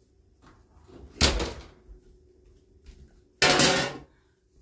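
Kitchen handling sounds: a sudden clunk about a second in and a longer, louder clatter near the end, over a faint steady hum.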